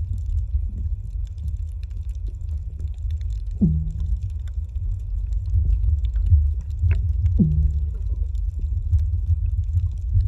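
Underwater sound of a scuba diver breathing through a regulator: a steady low rumble, with a short falling tone from the regulator about every four seconds, twice.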